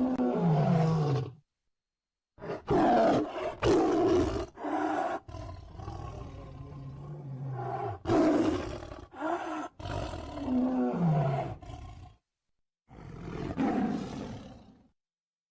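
Tiger roaring and growling in a series of deep, rough calls, several gliding downward in pitch. The calls are split into three runs by abrupt gaps of dead silence.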